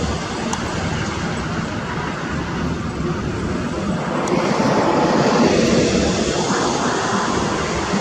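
Moving vehicle at highway speed: steady engine, tyre and wind noise, swelling a little past the middle.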